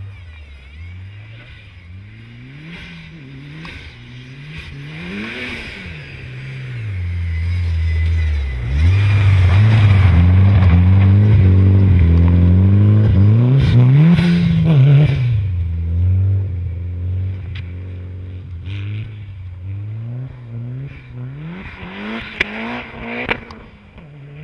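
Mitsubishi Lancer Evolution IX rally car's turbocharged four-cylinder engine revving hard, its pitch climbing and dropping again and again with throttle and gear changes. It is loudest as it passes close, from about eight to fifteen seconds in, then grows quieter.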